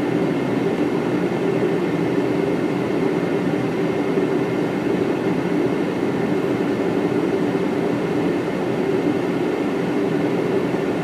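Steady rumble of cockpit noise in a Boeing 777 on final approach: engines and airflow over the airframe as heard on the flight deck, with a faint steady high tone.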